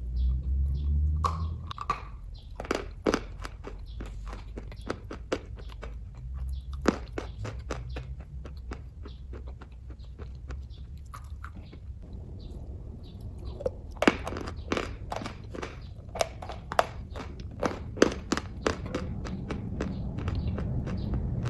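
Close-up chewing of kaju katli (soft cashew fudge): rapid sharp wet clicks of the mouth and jaw over a low rumble. The clicks thin out for a few seconds in the middle, then pick up again.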